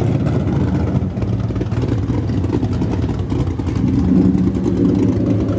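High-powered drag racing car engine running loud, with a steady low drone settling in about four seconds in.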